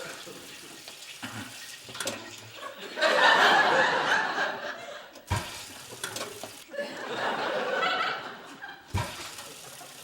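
Studio audience laughing in two swells, the louder one about three seconds in and a second one a few seconds later.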